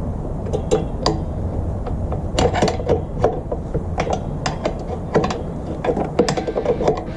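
Irregular, quick metallic clicks in short runs, from a hand tool being worked, over a steady low rumble.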